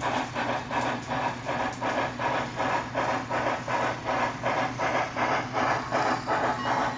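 Sound decoder (TCS WOW) in an HO scale 2-6-6-2 steam locomotive model playing steady steam exhaust chuffs through its small speaker, about three a second, as the model runs.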